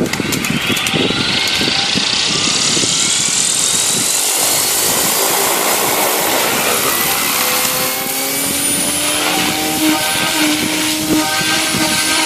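Devil 380 electric radio-controlled helicopter spooling up: the motor and rotor whine rises in pitch over the first six seconds or so, then holds a steady pitch.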